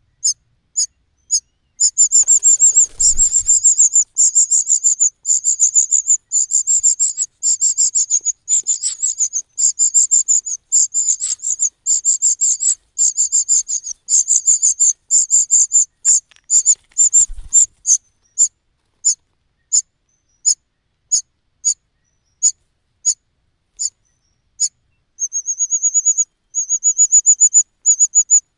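Cuckoo chick begging with rapid, high-pitched cheeps in long fast runs. Midway the cheeps slow to about one a second, then speed up again near the end. Two brief low thumps come early and midway.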